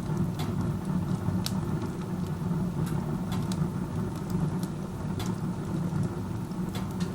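Wood stove burning with its door open, the chimney's very strong draft pulling air through the firebox with a steady low rush. Burning wood crackles over it in sharp pops every second or so.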